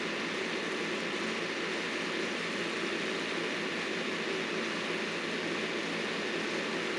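Engine of heavy landscaping equipment running steadily at constant speed, a continuous machine drone with no breaks or changes.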